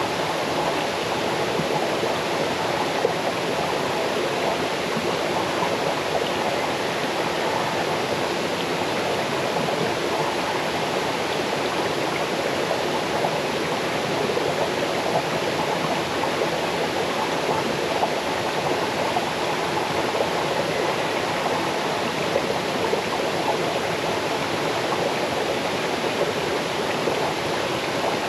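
Small waterfall cascading over stones into a stream: a steady, even rush of falling water with a babbling, gurgling texture.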